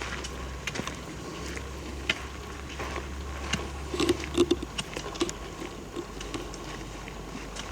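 Footsteps crunching through dry leaves and twigs on a forest floor, with irregular crackles and a few louder knocks about four seconds in. A low rumble of camera handling or wind runs under it and drops away about five seconds in.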